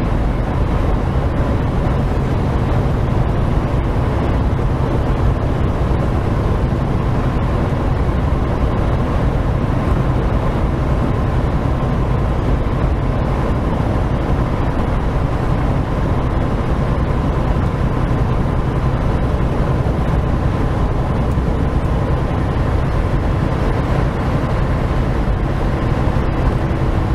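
Semi truck driving at highway speed: a steady, unchanging low engine drone with road noise.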